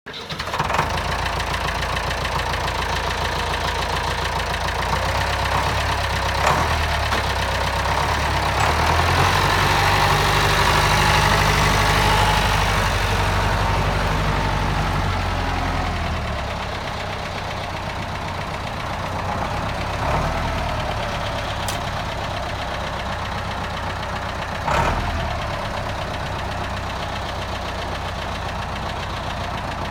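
David Brown tractor engine running, revved up to its loudest in the middle for a few seconds, then easing back down to a steady idle. A couple of sharp knocks stand out, about a quarter of the way in and near the end.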